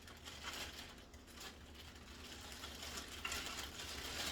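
Light rustling and small handling noises, with scattered faint ticks, as plastic packaging and vacuum parts are handled.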